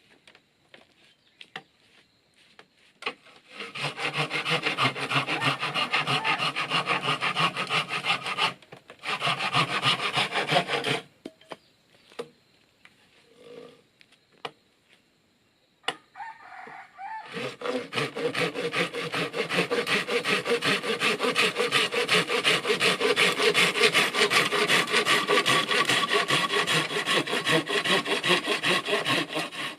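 Saw cutting through bamboo in quick, repeated scraping strokes: two short bouts early on, then a longer unbroken run from a little past halfway.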